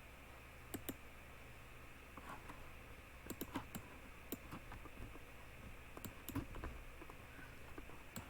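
Faint, irregular clicking and tapping of a computer keyboard and mouse, a few clicks at a time with short pauses between them.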